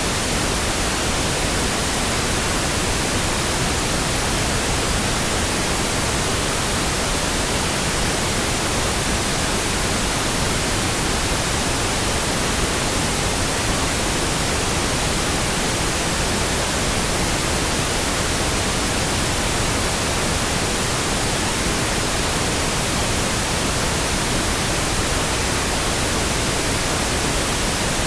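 Steady pink noise: an even, unchanging hiss that spreads across all pitches, played for sleep.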